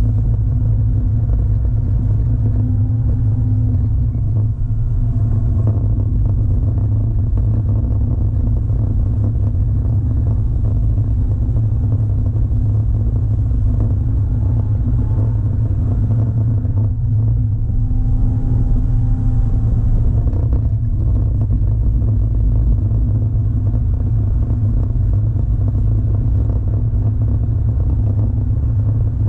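Classic Porsche 911's air-cooled flat-six engine running steadily under way, heard from inside the cabin as a loud, even low rumble mixed with road noise, the revs rising and falling only slightly.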